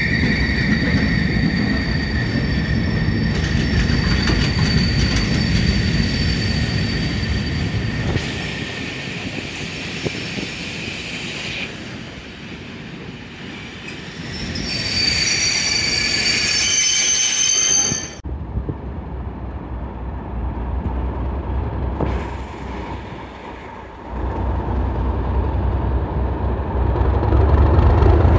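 Passenger-type test train coaches rolling slowly along a platform, wheels squealing in high steady tones that are loudest about fifteen seconds in. Near the end the low rumble of a Class 37 diesel locomotive's English Electric V12 engine running grows louder.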